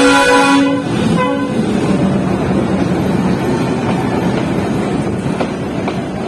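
Diesel locomotive horn on a metre-gauge passenger train, a chord of steady tones that stops under a second in and sounds briefly once more, followed by the coaches rumbling past close by on the track with a couple of faint clanks near the end.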